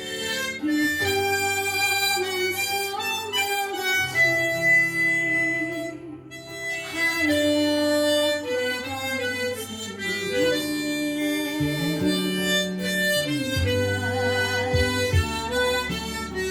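Harmonica playing a slow melody of long held notes over a low backing accompaniment, with a brief pause about six seconds in.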